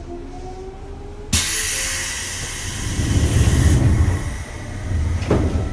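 Seibu 2000 series electric train running, heard from aboard, with a motor whine rising in pitch as it gathers speed. About a second in a loud rushing hiss cuts in suddenly and lasts two to three seconds, with a heavy rumble under it, and a sharp knock comes near the end.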